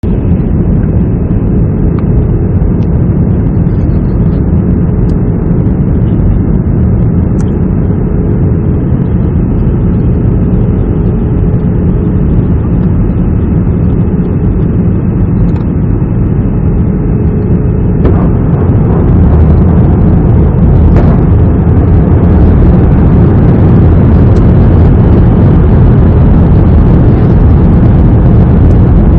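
Airbus A320 in flight: a steady, loud, low roar of jet engines and rushing air, which gets louder and fuller about eighteen seconds in.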